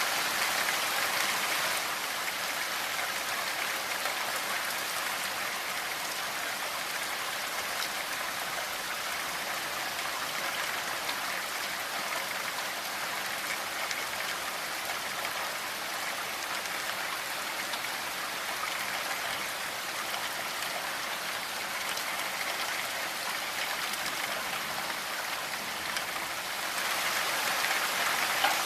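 Steady rainfall: a dense, even hiss of falling drops. It eases slightly about two seconds in and turns heavier again near the end.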